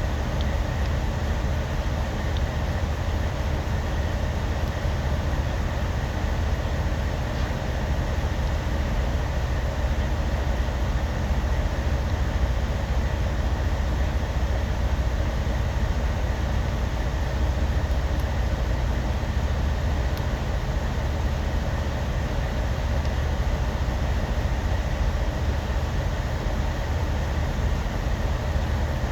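Truck engine running steadily at an unchanging speed while the motor is being calibrated.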